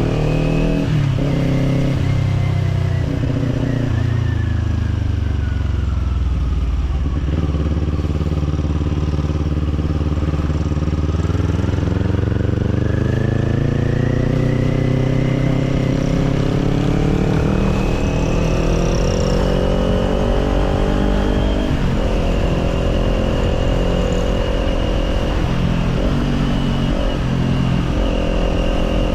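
Kawasaki Z400's parallel-twin engine through an Orion Katya slip-on exhaust, heard from the rider's seat on the move. The revs fall away over the first several seconds, the bike then pulls smoothly back up over about ten seconds, and it holds high revs with a couple of short breaks near the end.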